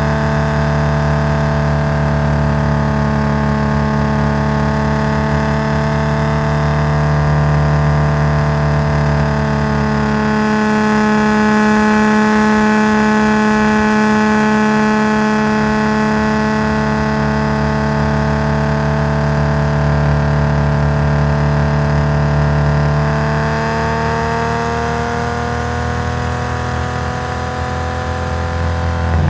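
Nissan S20 twin-cam straight-six of a Skyline GT-R running loud through its custom exhaust at a nearly constant engine speed, its pitch rising gently near the end.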